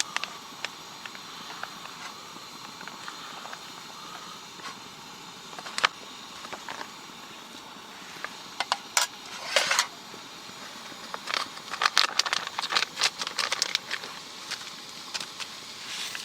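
Wood campfire crackling, with irregular sharp pops that bunch up about nine seconds in and again a little later, over a steady hiss.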